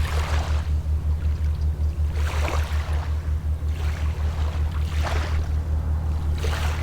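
Waves washing onto the shore four times, each a brief rush of surf, over a steady low thudding that pulses about five times a second, typical of a boat's engine running.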